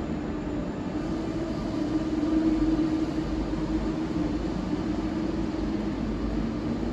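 RER B electric commuter train running in the tunnel beyond the platform: a steady rumble with a constant hum.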